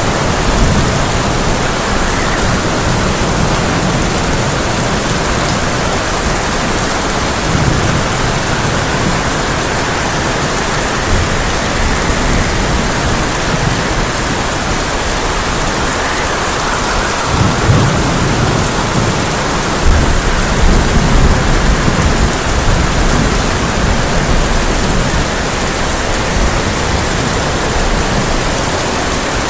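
Heavy rain falling on a tin roof in a steady rush, with low rolls of thunder several times. The longest and strongest rumbles come about two-thirds of the way through.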